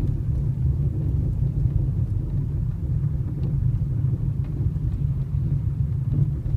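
Hyundai Solaris driving on an uneven road: a steady low rumble of road and tyre noise with a few faint knocks every second or so, the knock from the right side of the steering rack over bumps.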